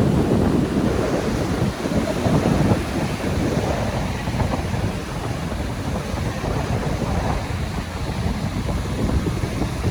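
Wind buffeting the microphone over the sound of surf on a beach, a dense low rush that is stronger for the first few seconds and then eases slightly.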